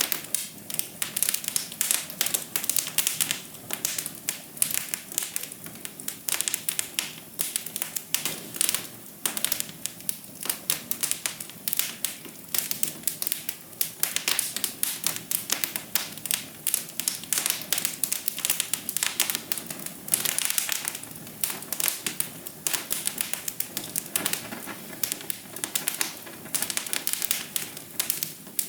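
Wood fire crackling in a fireplace: a dense run of irregular snaps and pops over a soft steady hiss of flames.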